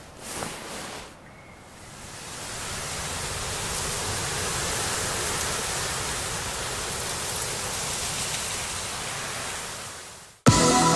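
A steady, even rushing noise swells in over about two seconds, holds, then fades away. Music starts abruptly near the end.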